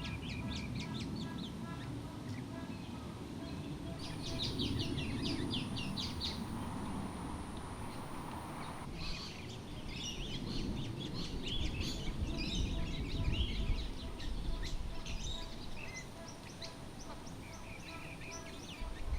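Many wild birds calling at once, with quick, high chattering calls coming in clusters, over a low rumble.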